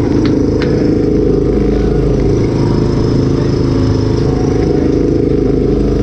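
Honda XL motorcycle engine running hard at fairly steady revs under racing load, loud throughout, with a couple of brief clicks about half a second in.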